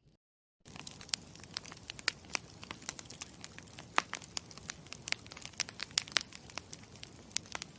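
Campfire crackling: a steady low hiss with frequent sharp, irregular pops and snaps, starting about half a second in after dead silence.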